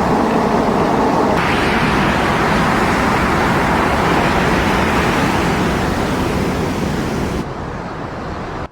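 Strong storm wind blowing on the microphone, a continuous rushing roar that changes abruptly twice as the footage cuts between clips.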